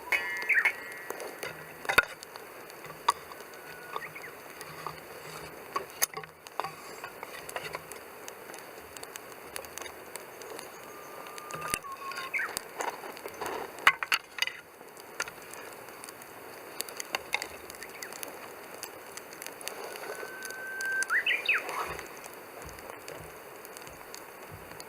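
Wood fire crackling with frequent sharp pops and snaps, the loudest about two seconds and fourteen seconds in, over a steady low hiss, with a few brief high whistling tones.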